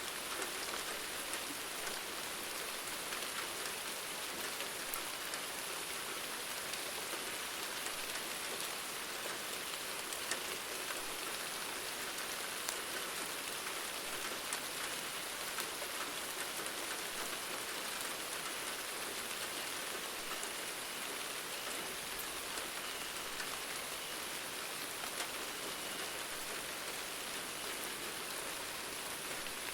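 Steady rain falling on a hard surface, a dense even hiss with many small sharp drop ticks scattered through it.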